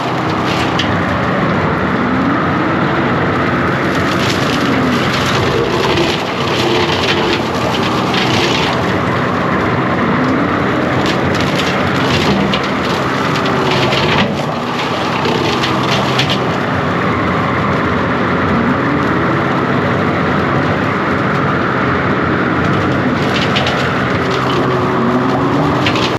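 John Deere 333G compact track loader's diesel engine running hard, its pitch rising and falling several times, while brush and limbs crack and snap under the cutting attachment. The sound cuts off abruptly at the end.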